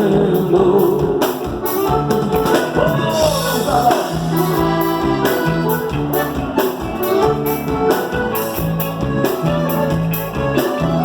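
Gaúcho regional folk band music: the singer holds the last word of the chorus for about a second, then the band plays an instrumental passage with a steady beat.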